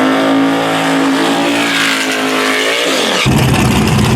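Drag race car engine at full throttle during a pass, holding a steady high note that climbs slightly. About three seconds in it gives way abruptly to a lower, rough rumble of an engine near idle.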